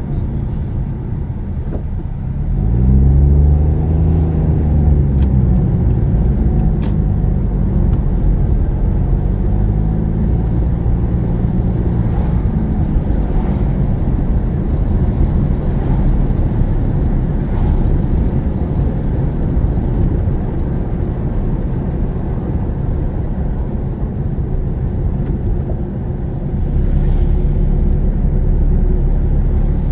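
Car engine and tyre-and-road noise heard from inside the cabin. About two and a half seconds in, the engine pulls harder and its note rises and falls twice. It then settles into a steady road rumble, which grows louder again near the end.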